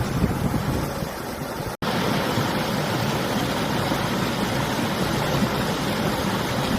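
River water rushing steadily, with winter wind gusting against the microphone in a low rumble. The sound drops out for an instant a little under two seconds in.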